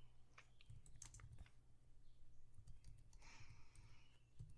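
Faint, scattered clicks of a computer keyboard and mouse over a low steady hum, with a short soft rustle about three seconds in.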